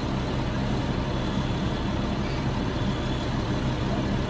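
A large vehicle's engine idling steadily with an even hum, while distant fireballs rise silently ahead before their blast arrives.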